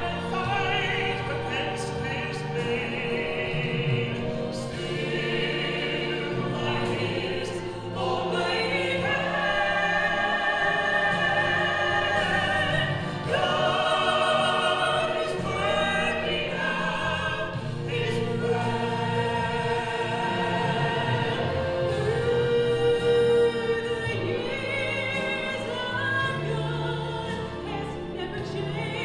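A church choir singing, with long held notes that change every second or two.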